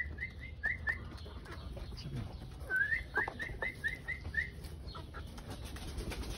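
A bird chirping in quick runs of short rising chirps, about six a second: one run stops about a second in and another comes about three seconds in. Faint ticks of chickens pecking grain from a plastic feed bowl sound underneath.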